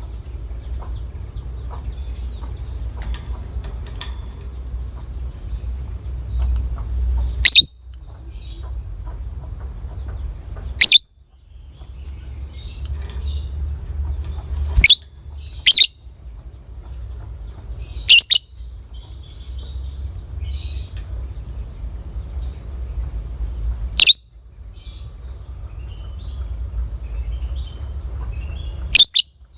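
Lovebird giving a long, unbroken, high-pitched chattering trill (the 'ngekek panjang'). About seven loud, short, shrill calls cut through it.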